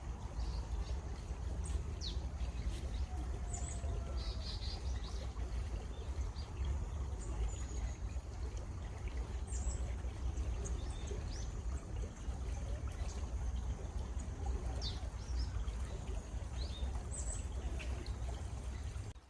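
Stream water running steadily, with a low rumble, while birds give scattered short, high chirps throughout.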